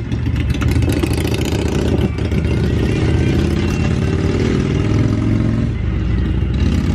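Honda Civic's engine idling steadily, heard from inside the car's cabin, with a few light clicks of items being handled.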